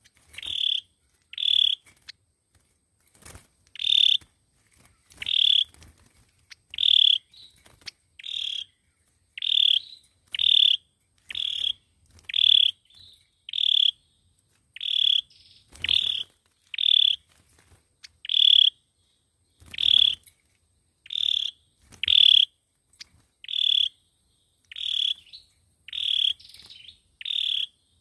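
A sâu dừa bird calling over and over: short, sharp, high notes repeated a little more often than once a second, the kind of call played as a lure for trapping.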